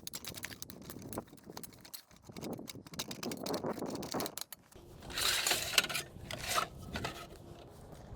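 Close handling sounds of pizza dough being punched down and worked by hand and moved into baking pans: a run of small clicks and taps, then a louder scraping rustle about five seconds in.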